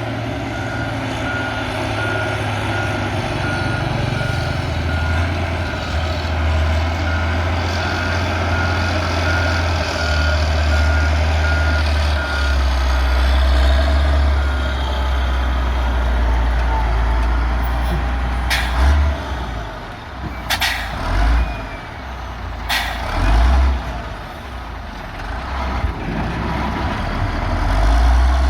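Heavy diesel engine running steadily, with a reversing alarm beeping evenly for roughly the first half. Three short sharp sounds come in the second half.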